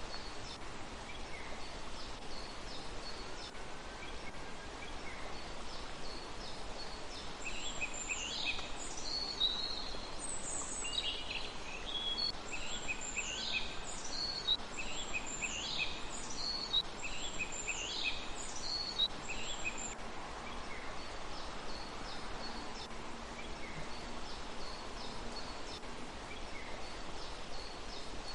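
Birds calling over a steady background hiss. Faint high chirps repeat throughout. For about twelve seconds in the middle, a bird gives a run of loud calls, roughly one a second, each sweeping down in pitch.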